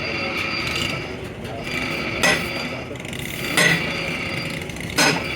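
Three sharp metal-on-metal knocks, spaced about a second and a half apart, over a steady high-pitched machine whine in a truck repair workshop.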